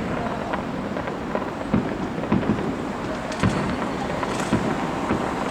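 Fireworks display: a dense steady crackle with irregular booms and bangs, several in quick succession near the middle.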